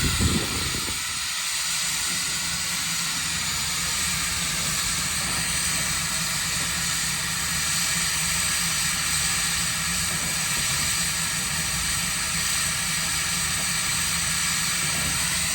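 Standing steam locomotive hissing steadily as steam escapes, with a low steady hum underneath.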